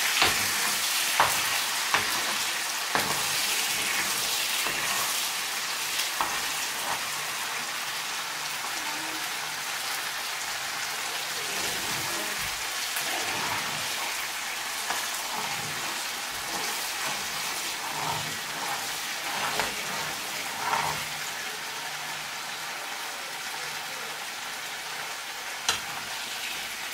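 Chopped onions sizzling as they fry in a frying pan, slowly getting quieter, with a metal spoon now and then clicking and scraping against the pan as they are stirred.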